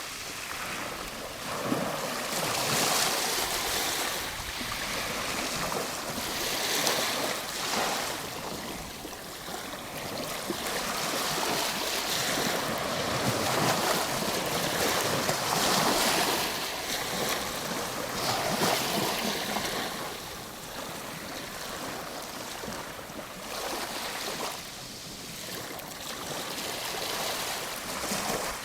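Ocean waves breaking and washing on a shore, a steady surf hiss that swells and eases every few seconds.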